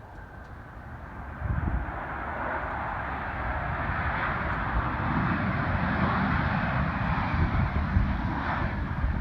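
Jet airliner engines rushing, growing louder from about a second and a half in as the aircraft approaches, with wind buffeting the microphone.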